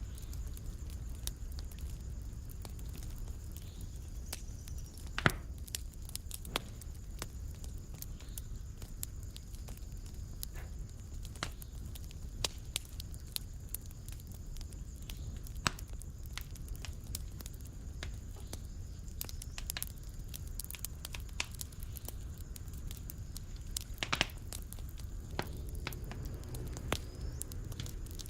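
Fire burning in a fireplace: a steady low rumble of flames with irregular crackles and sharp pops throughout, two louder pops about five seconds in and again near the end.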